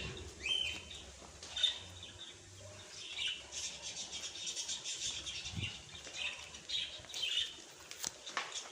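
Small birds chirping and twittering: many short, high calls overlapping, with a few sharp clicks.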